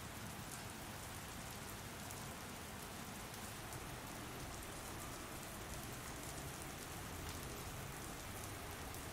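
Steady rain falling, an even hiss with scattered patter of drops hitting a surface.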